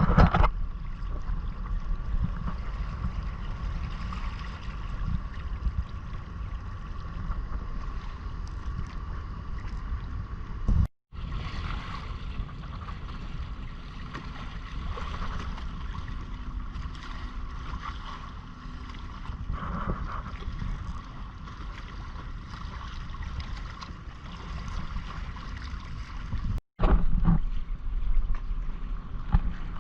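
Wind buffeting the microphone and water washing past the hull of a Hobie Island sailing kayak under way, with a faint steady whine behind it. The sound drops out completely for a moment twice.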